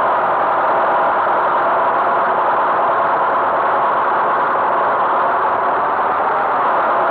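A vehicle engine running steadily at an even speed, with no change in pitch or loudness.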